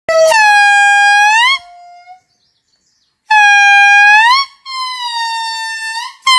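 Indri lemur singing: four long, loud wailing notes in a row, each held steady and then sliding upward at its end, with short gaps between.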